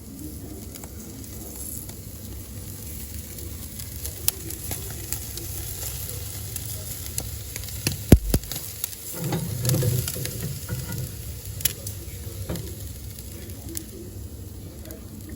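Lamb sizzling on a grill over live coals in an open fireplace, with sharp crackling clicks scattered through it. A loud thump comes about eight seconds in, followed by a brief low rumble.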